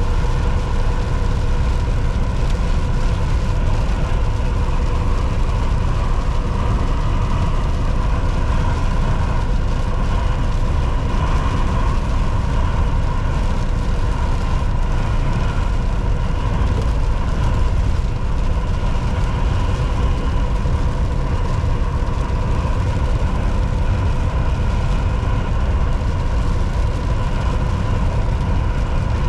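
Volvo VNL 760 semi truck cruising at highway speed: a steady low engine and road rumble with a constant hum, unchanging throughout.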